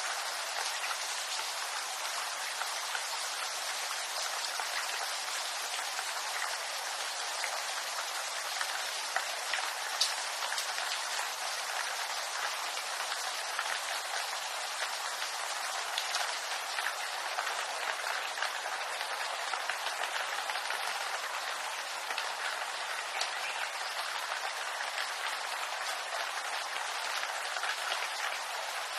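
Rain falling steadily on bamboo leaves, an even hiss of many small drop impacts, with a few louder single drops about ten seconds in and again a little later.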